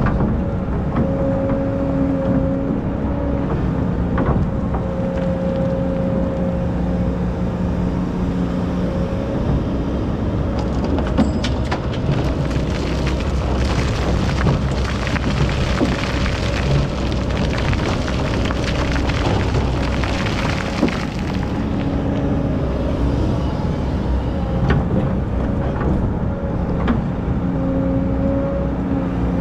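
Hydraulic excavator's diesel engine running steadily under load, its pitch rising and falling a little as it works. From about a third of the way in, a rushing, gritty noise with clicks joins it for roughly ten seconds.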